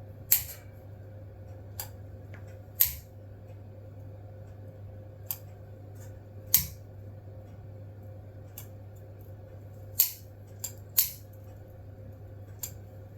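A hand-held lighter clicked about ten times at uneven intervals, each a sharp separate click, as it is worked to light newspaper and kindling in a fireplace.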